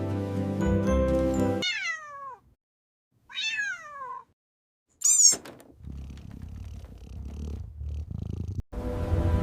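A cat meows twice, each meow falling in pitch, then gives a short, high-pitched cry. A low, steady rumble follows, with background music before the meows and again near the end.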